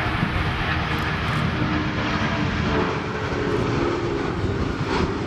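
Boeing 757 airliner's jet engines running steadily as it passes, with wind buffeting the microphone.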